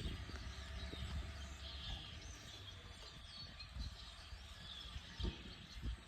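Several songbirds chirping and singing, faint, over a low steady rumble.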